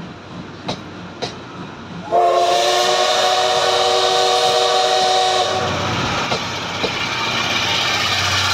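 Passenger coaches rolling past with a few sharp wheel clicks, then a loud train whistle sounding a chord of several pitches, with a hiss, held about three seconds. After it, a steady low hum and rumble from the electric locomotive at the rear of the train, drawing near.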